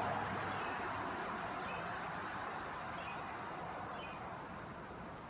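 Road traffic: a passing vehicle's steady tyre-and-engine noise slowly fading away, with a few faint bird chirps over it.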